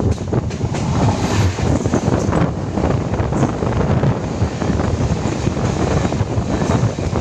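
Suburban electric local train running, a steady rumble of wheels on the rails with frequent knocks and clicks, and wind buffeting the microphone.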